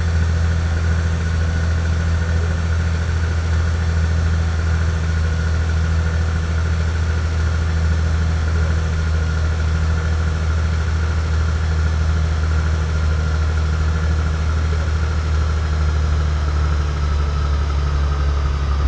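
Steady drone of an airliner's engines heard inside the passenger cabin: a strong low hum with a higher whine that drifts slightly lower near the end.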